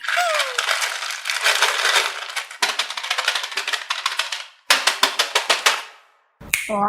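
Dense, rapid clattering clicks lasting about four and a half seconds, then a handful of separate sharp clicks and a brief pause near the end.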